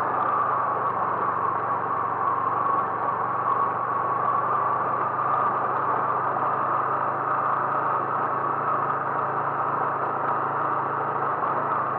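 A vehicle engine running steadily with a constant low hum under a band of mechanical and road noise, unchanging in pace.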